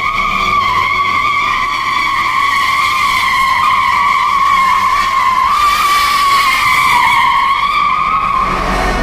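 Car tyres squealing in one long, continuous, high-pitched screech that wavers slightly in pitch and cuts off near the end.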